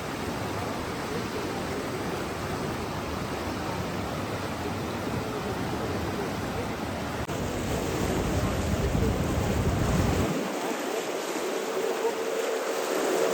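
Steady rushing water noise. It steps up in level after a brief dip about seven seconds in, and about ten seconds in the deep rumble drops away, leaving a thinner hiss.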